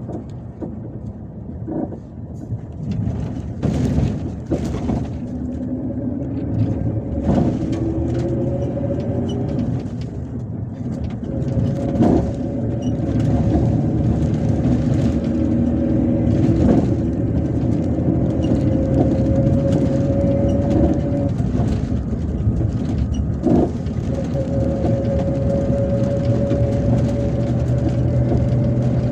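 MAZ-257 coach running at road speed, heard from inside the cabin: a steady engine and drivetrain drone with a whine that climbs slowly in pitch several times as the bus gathers speed. A few sharp knocks from the road and body come through.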